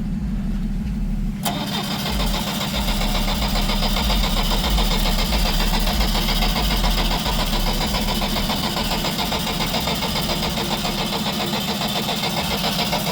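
A car engine being turned over on its starter, a fast, even cranking that starts suddenly about a second and a half in and goes on without the engine catching. Another engine idles steadily underneath.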